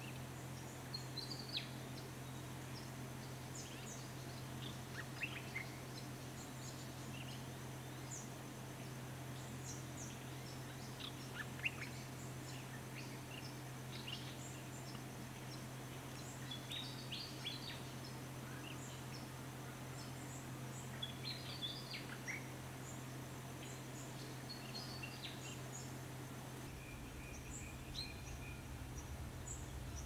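Small birds giving short, scattered high chirps and twitters over a steady low background hum, with a brief trill near the end.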